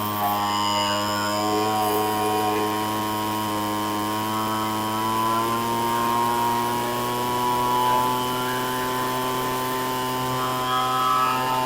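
Craftsman 205 MPH 25cc two-stroke blower engine running steadily off choke, its speed creeping up a little around the middle as the carburetor mixture is fine-tuned.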